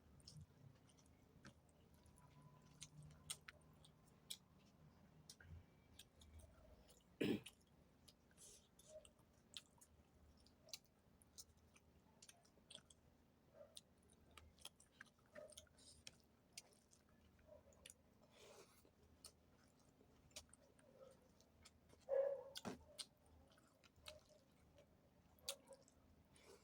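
Faint chewing and wet mouth clicks of a person eating. Two louder, sharp sounds stand out, about a quarter of the way in and again past the three-quarter mark.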